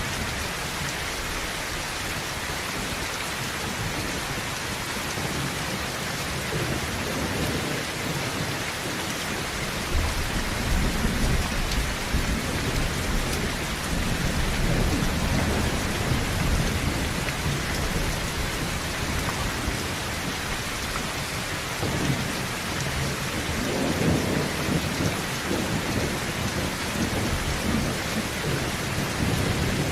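Heavy rain drumming steadily on a tin roof, with low rolling thunder that builds about a third of the way in and swells again later on.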